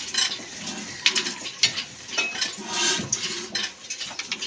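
Metal parts clinking and clattering as they are handled, with several sharp knocks about a second apart.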